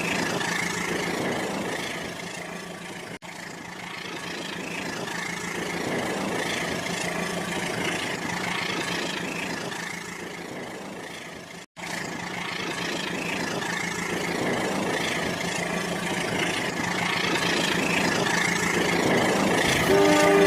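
Rail King toy train running, with a steady mechanical noise from its motor and its built-in engine sound effect, cutting out briefly twice. Near the end a horn-like tone of several steady notes starts.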